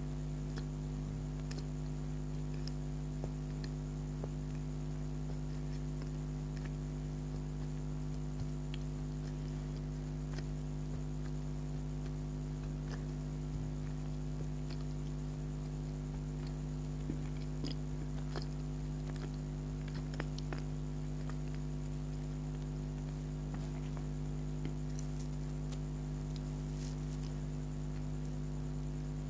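Close-up eating sounds of soft donuts being chewed: scattered small clicks and smacks of the mouth, more frequent late on, over a steady low hum.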